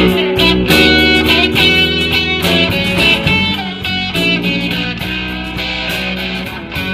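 Blues band playing an instrumental passage: electric guitar over bass, with regular cymbal or drum strokes. It eases off slightly toward the end.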